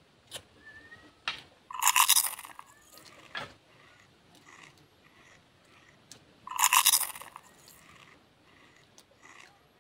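A person biting and chewing raw green leaves, with a few short crunching bites. Two loud, harsh, pitched cries of just under a second each, about five seconds apart, are louder than the chewing.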